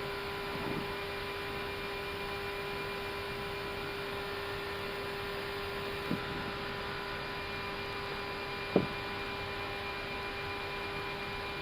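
Airbus A319 flight deck in the climb: a steady rush of airflow and ventilation with a constant hum. Two short clicks are heard, about six seconds in and again nearly three seconds later, the second one louder.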